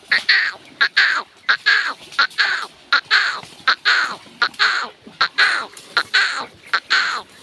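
A bird giving harsh, short calls with a falling pitch, repeated rapidly at about three a second without a break.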